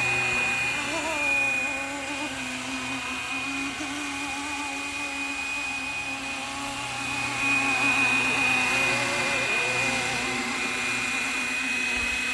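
Flywing BO-105 RC helicopter in flight, its electric motor and rotor spooled up: a steady high whine over a lower hum, getting a little louder about seven seconds in.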